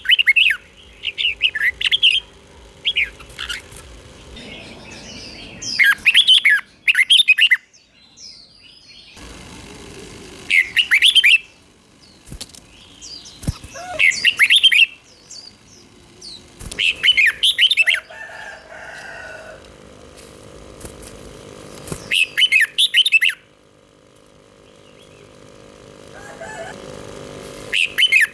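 Red-whiskered bulbul singing short, bright, warbling whistled phrases, each about a second long, repeated every few seconds over a faint steady hum.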